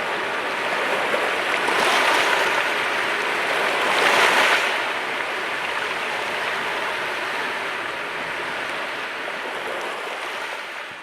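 Sea waves washing on the shore, a steady surf hiss with two louder surges about two and four seconds in, easing off toward the end.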